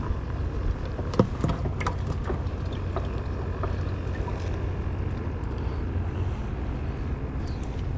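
Steady low rumble of a boat engine, with a few light knocks and clicks.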